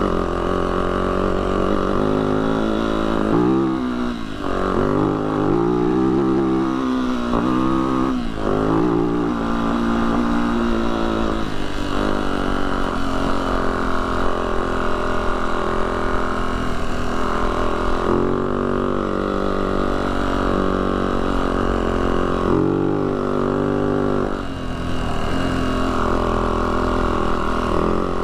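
Yamaha YZ450F four-stroke single-cylinder dirt bike engine under load on a trail climb, its pitch rising and falling over and over as the throttle and gears change.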